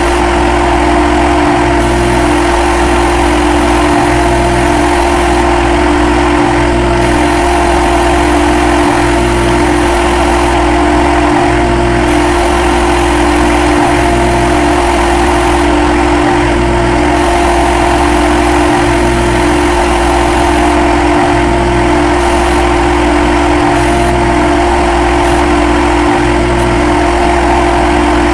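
CNC lathe running: a loud, steady machine hum with a strong even tone, unchanged throughout, with a slight regular pulse about every two and a half seconds.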